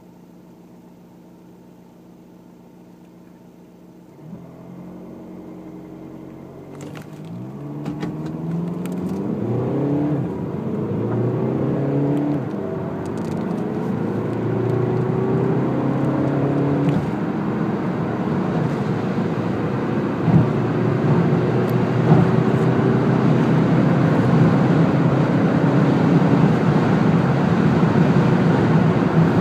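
Skoda Octavia Scout's 2.0 TDI four-cylinder diesel, heard from inside the cabin, idling steadily for about four seconds and then accelerating at full throttle. The engine note climbs and drops again with each upshift of the six-speed automatic gearbox, while tyre and wind noise build with speed.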